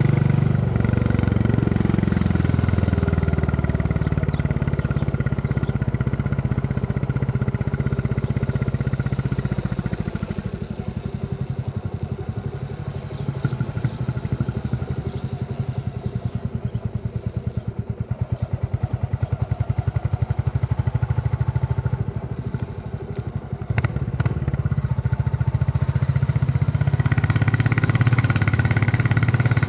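Royal Enfield Classic 350's single-cylinder engine thumping under way, its note falling as the bike slows in the first few seconds. It then runs softer at low revs for a long stretch with single beats plain, a few sharp clicks sound, and it pulls louder again near the end.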